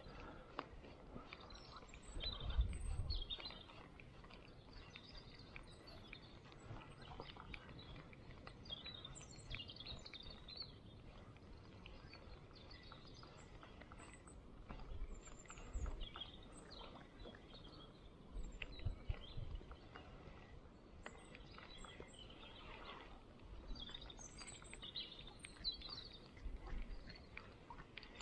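Small birds chirping and calling in short, scattered phrases over a faint outdoor background, broken by a few brief low rumbles, the loudest about two and a half seconds in.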